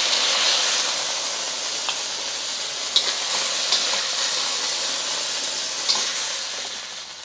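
Beef slices sizzling in hot oil in a wok as they are stir-fried, with a few sharp metal clicks of the spatula; the sizzle eases off near the end.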